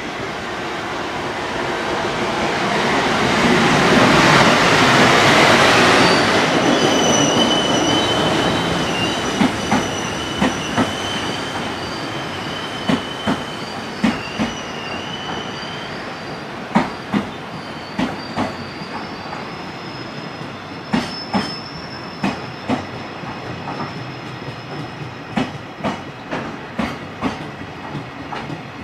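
EF510 electric locomotive hauling a freight train past, loudest a few seconds in, followed by the freight wagons rolling by with a high wheel squeal and repeated clicks of wheels over rail joints.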